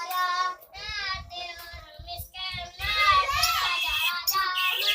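Young weaver bird (manyar) calling in a quick run of wavering, warbling chirps with short breaks between phrases.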